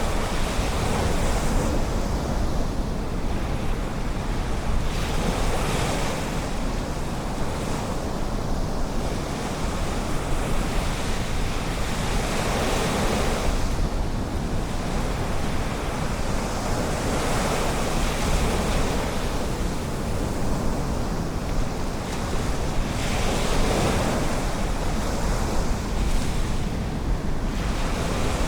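Ocean surf washing ashore, a steady rush that swells every three to five seconds as waves break, with a low wind rumble on the microphone.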